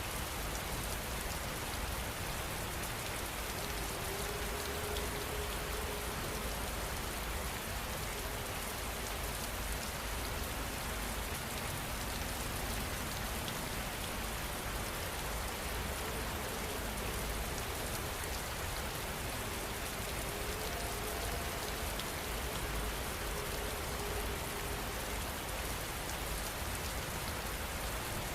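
Steady rain falling on a surface: an even, unbroken hiss with no thunder.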